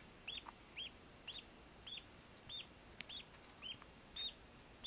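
Newly hatching duckling peeping: a dozen or so short, high-pitched chirps, each rising and falling, coming about twice a second with a quick flurry a little after two seconds in.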